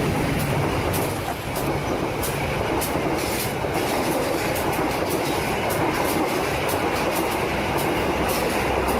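Train running along the track: a steady rumble with light clicking from the wheels at irregular intervals.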